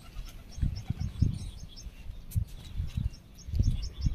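Small birds chirping in runs of short, quickly repeated high notes, over irregular low rumbles on the microphone that come and go every second or so.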